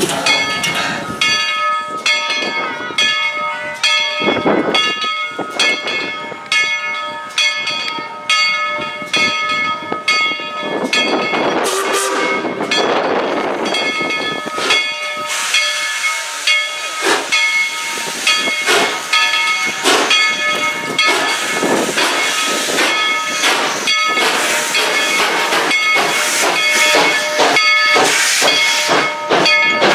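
Tweetsie Railroad No. 190 steam locomotive working, its exhaust beating in a steady rhythm about twice a second amid steam hiss, with a steady high chord of tones running through. Wind gusts on the microphone come through as louder rushing bursts.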